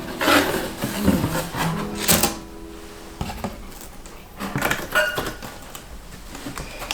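The tail of a background pop song, then a few clicks and knocks of household objects being handled indoors, the loudest a sharp click about two seconds in.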